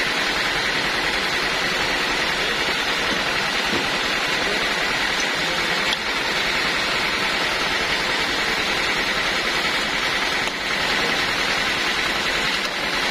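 Band sawmill running, a steady even noise with a faint high whine.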